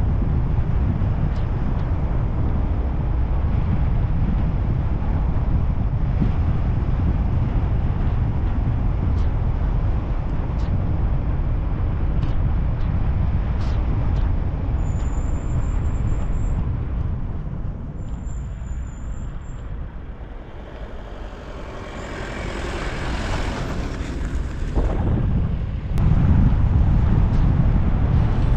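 A car driving along a road, with a steady low rumble of tyres and engine. About two-thirds of the way in the rumble drops away briefly, then a hissing swell builds and the full rumble returns near the end.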